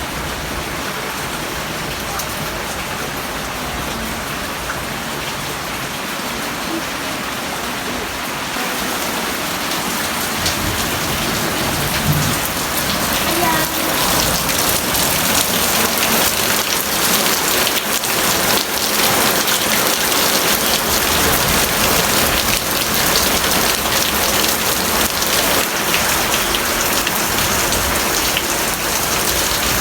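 Heavy rain falling steadily, getting louder about ten to fourteen seconds in and then holding as a dense patter of drops.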